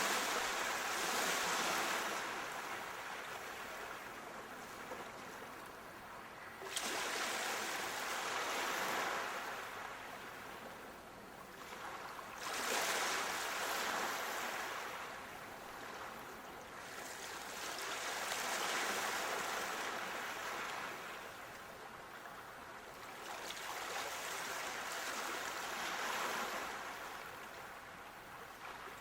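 Ocean waves breaking and washing ashore, about five surges, each one rising quickly and then hissing away over several seconds.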